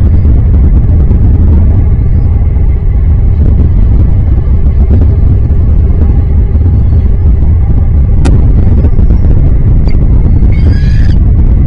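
Loud, steady low rumble of wind buffeting an outdoor nest-camera microphone. There are a couple of sharp clicks, and near the end a brief high, stuttering bird call.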